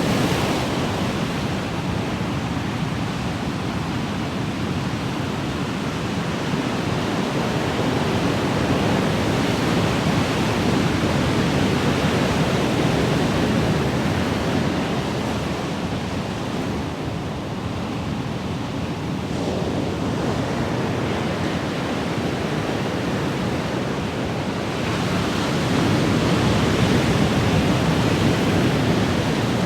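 Ocean waves washing in a continuous rushing wash that swells and eases slowly, building again near the end.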